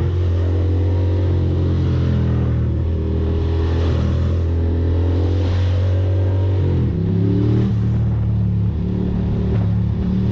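Ducati Monster's V-twin engine pulling steadily under a rider on the move, with a shift in engine pitch about seven seconds in, a gear change.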